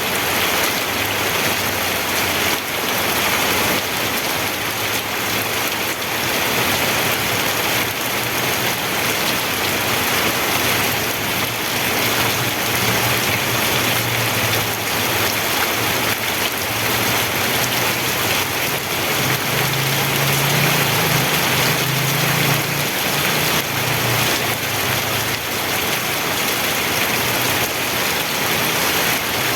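Steady heavy rain: a dense, even hiss of falling drops. A low rumble sits beneath it and swells for a few seconds about two-thirds of the way through.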